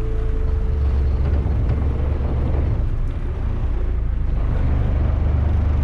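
Fishing boat's engine running steadily under way, a low drone under a rushing wash of wind and water noise.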